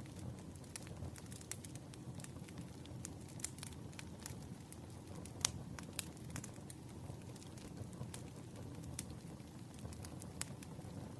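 Firewood burning in a campfire: a steady low rumble of flames with irregular sharp crackles and pops, two of them louder just past the middle.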